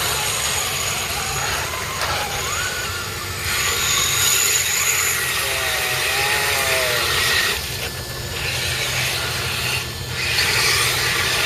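Radio-controlled off-road trucks running over rough ground, their electric motors giving a faint high whine over a steady rush of noise that swells twice, once from a third of the way in and again near the end.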